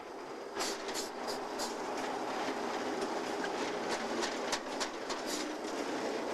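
Locomotive and coal hopper cars rolling along the track: a steady rail rumble that swells about half a second in, with repeated sharp clicks and clanks from the wheels and cars.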